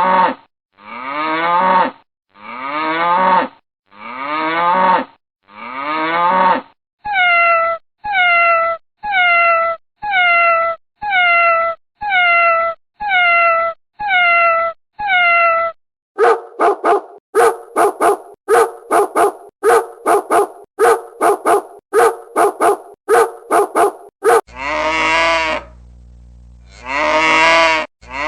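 A run of recorded animal call sound effects, each call repeated at even spacing: pitched calls about one a second, then faster ones about two a second from just past halfway, then two longer calls over a steady hum near the end.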